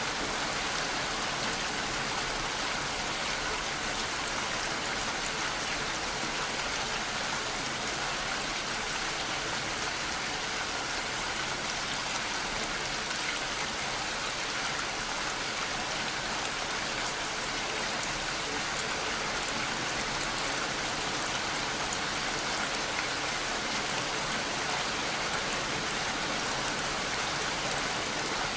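Steady rain falling, an even hiss with fine scattered drop patter and no change in strength.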